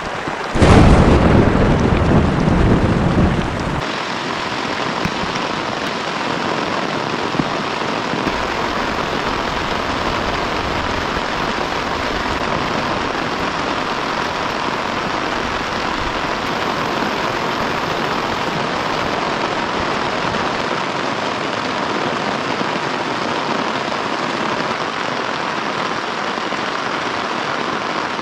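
A sudden thunderclap a little under a second in, rumbling for about three seconds, over heavy rain falling steadily throughout.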